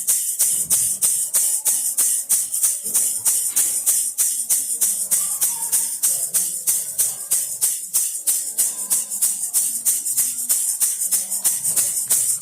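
Baby rattle shaken steadily in a regular rhythm, about four shakes a second, each a bright, crisp rattle of beads.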